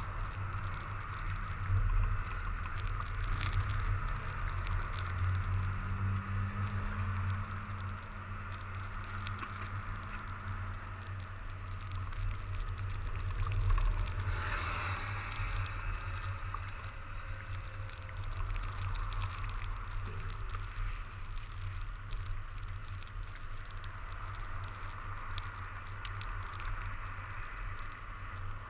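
Electric-assist fat bike ridden through snow, with a steady low rumble and hiss from the ride and wind on the microphone. A brief louder swell comes about halfway through.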